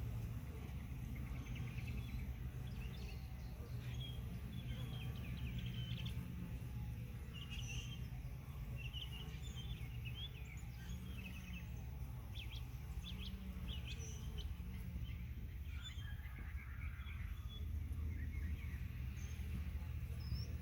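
Honey bees buzzing at the hive: a steady low hum, with single bees' pitch rising and falling as they fly close by. Small birds chirp now and then.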